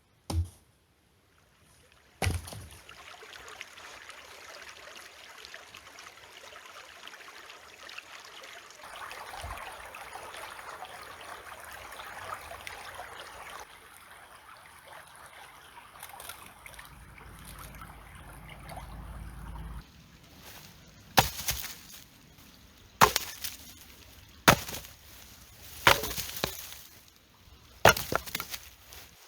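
A stream running steadily, then a hatchet splitting firewood: about six sharp chops, roughly a second and a half apart, in the last third.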